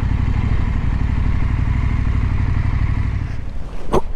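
Husqvarna Norden 901's parallel-twin engine running under way, with wind hiss on the microphone. The engine sound drops away about three seconds in, and a sharp click follows near the end.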